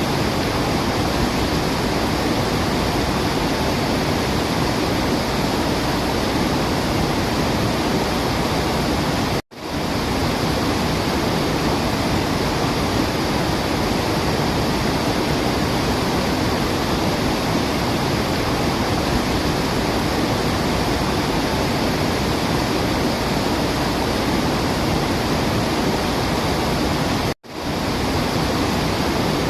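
Waterfall rushing with a steady, even roar of falling water. The sound cuts out abruptly for a split second twice, about a third of the way in and near the end.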